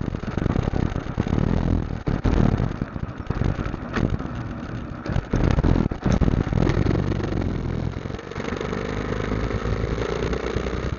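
Motorcycle engine running on the road under a rushing, uneven noise that surges and falls; from about eight seconds in a steady engine note holds.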